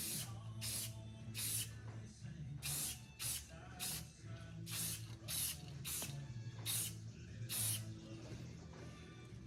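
Aerosol spray can giving about ten short bursts of spray, each a fraction of a second, at uneven intervals over a low steady hum.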